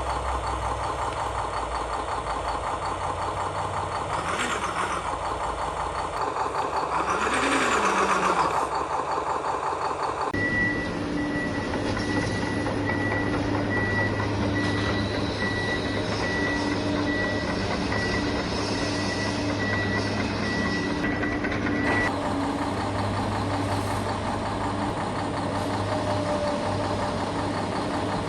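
Radio-controlled construction machines running with a steady engine hum. Twice a motor whine rises and falls. After a change about a third of the way in, a reversing beeper sounds over and over for about ten seconds.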